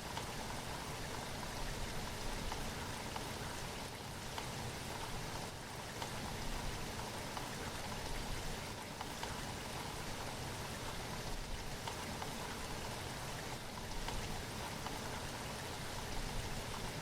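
Steady rain falling, with many small drop hits heard as fine ticks over an even hiss.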